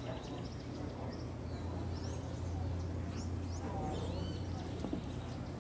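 Birds chirping: many short, quick chirps and whistled notes, some sweeping up or down in pitch, over a steady low rumble.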